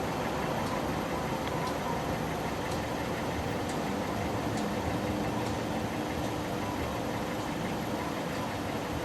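Diesel freight locomotive engine running steadily as the train moves, with faint light clicks about once a second.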